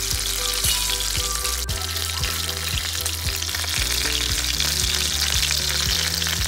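Masala-coated pomfret shallow-frying in hot oil in a pan on medium heat: a steady sizzle.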